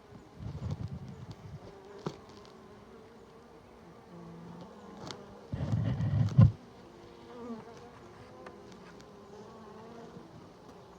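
Honeybees buzzing around an opened hive, a wavering drone of several bees. Heavy rustling against the microphone near the start and again, loudest, about six seconds in, with a few sharp clicks.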